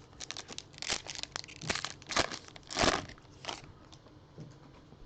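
Foil trading-card pack wrapper being torn open and crinkled: a run of rustles and crackles lasting about three and a half seconds, loudest just before the three-second mark.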